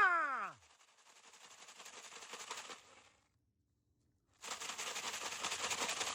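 Dense, rapid crackling and crunching, like handling or footsteps on a gravel trail, which cuts out completely for about a second in the middle. It opens with a short, loud vocal sound that falls steeply in pitch.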